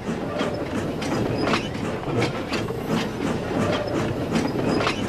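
A train running slowly along the track, its wheels clicking over rail joints two or three times a second over a steady rumble.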